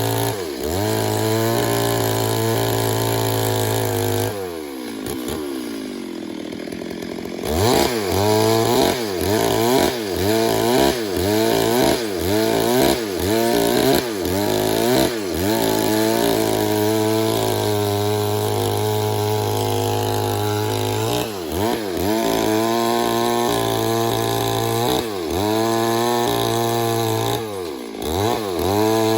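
Stihl MS 382 two-stroke chainsaw running at high revs while cutting wood, its pitch dipping and recovering about once a second as it bogs in the cut. About four seconds in the engine falls to a lower, quieter speed for some three seconds before revving back up.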